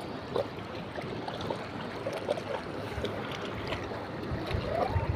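Steady wash of shallow sea water, small waves and splashing from swimmers, with faint distant voices through it.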